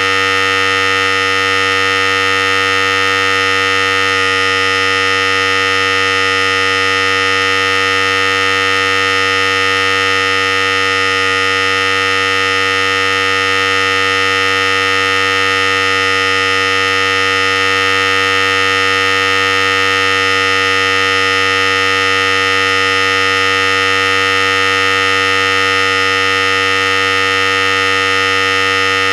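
Philips Series 5000 electric hair clipper running continuously, a steady, even buzz that holds the same pitch and loudness throughout.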